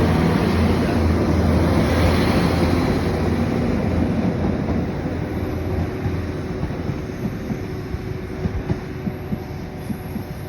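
Transport for Wales diesel multiple-unit train pulling out and passing close by. Its engine hum and running noise are loud at first and fade steadily as it draws away, with sharp wheel clicks over the rail joints in the second half.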